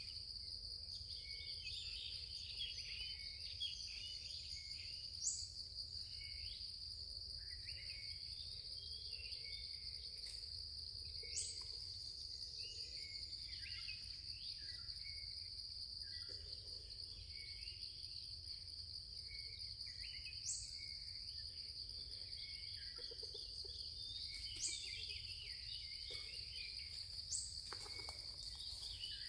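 Forest ambience: a steady high-pitched insect drone, with scattered small bird chirps and a short high rising chirp recurring every few seconds.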